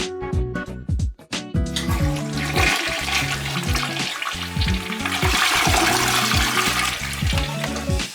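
A toilet flushing: rushing water starts about two seconds in, swells, and dies away near the end, over background music.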